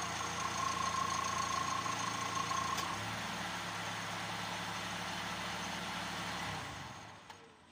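Kia Avella engine idling with the air conditioning running on an overcharged system, a steady hum with a high whine over it. The whine stops about three seconds in and the engine note shifts; about six and a half seconds in the engine sound stops and fades out.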